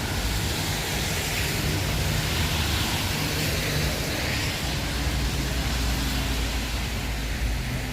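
Steady wind and rain noise on a wet street, with a heavy low rumble underneath. The hiss swells for a few seconds mid-way.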